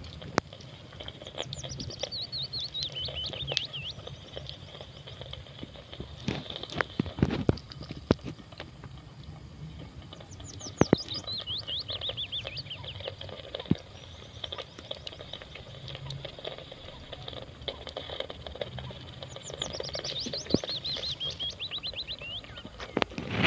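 A songbird sings a short phrase of rapid notes falling in pitch three times, about nine seconds apart. Scattered sharp knocks and clicks sound in between, loudest about seven and eleven seconds in.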